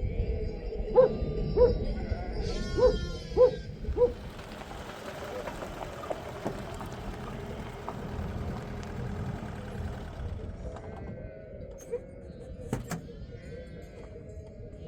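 Sheep bleating, a string of short calls over the first four seconds and more calls again after about ten seconds. In between comes a steady hiss.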